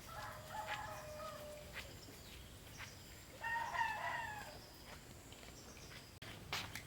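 Rooster crowing twice: one call at the start, a louder one about three and a half seconds in.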